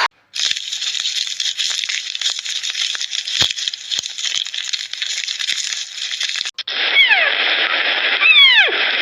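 About six seconds of dense crackling, rustling noise. After a cut, a cat gives several high meows that fall steeply in pitch.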